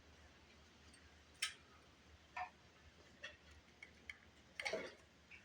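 Scattered light clicks and taps of hand tools and small metal engine parts being handled during a small-engine teardown, irregular, with a sharper click about one and a half seconds in and a short cluster of taps near the end.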